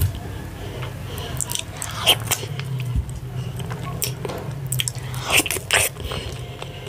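Close-miked eating sounds of a person chewing fufu with ogbono and ewedu soup: wet chewing with sharp mouth clicks and smacks scattered through, over a steady low hum.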